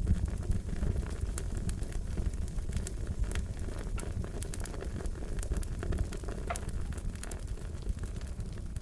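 Wood fire crackling: a low steady rumble of flames with frequent sharp pops and snaps scattered irregularly throughout.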